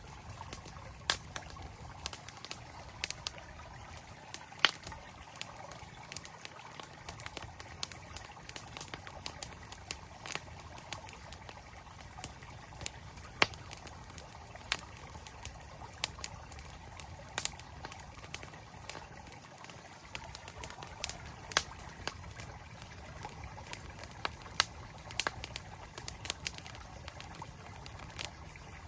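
Campfire crackling with sharp, irregular pops over the steady rush of a flowing mountain stream.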